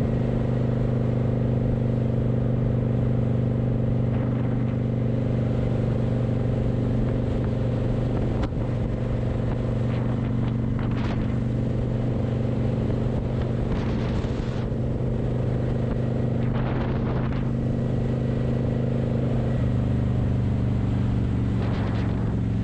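A vehicle engine running at a steady speed, its pitch hardly changing, with a few brief rushing noises in the middle.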